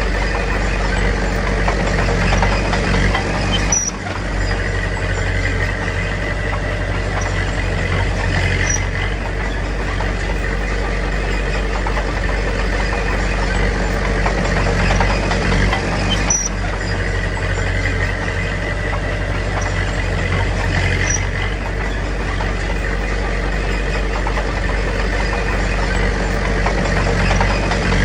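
Heavy diesel construction machinery running steadily, with a strong low rumble and a few short, high squeaks several seconds apart.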